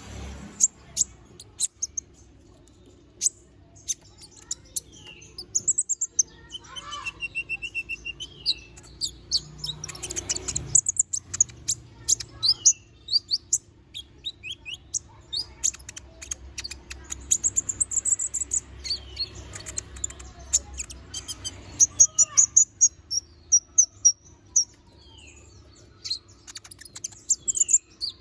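Small sunbird ('konin', 'kolibri ninja') singing a long run of sharp, high-pitched chirps, trills and short whistled glides, with dense rapid bursts several times, over a faint low hum.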